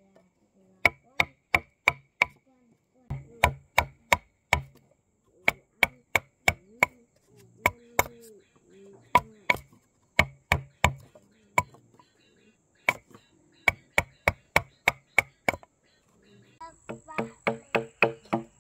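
Sharp chopping blows from a blade, in runs of three to six strikes about three to four a second with short pauses between. Near the end comes a quicker run of strikes that grows louder.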